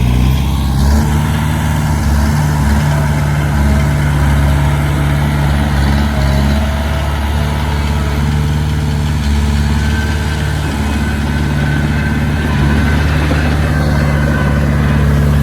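Heavy diesel engine running steadily, with small rises and falls in load.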